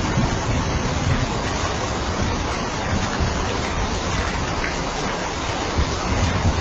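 Steady rain falling: an even hiss with irregular low thumps underneath.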